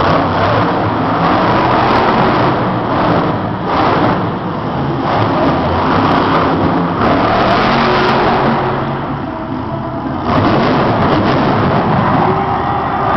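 Monster truck's supercharged V8 engine revving loudly, easing off briefly about two-thirds of the way through and then coming back up.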